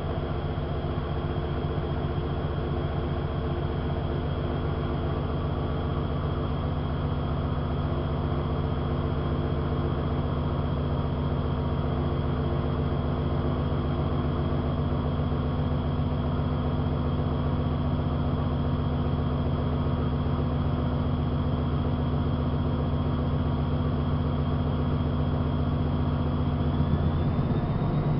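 AEG Lavamat 5210 washing machine with its drum spinning, the motor humming steadily with a high whine; near the end the whine starts rising in pitch as the drum speeds up.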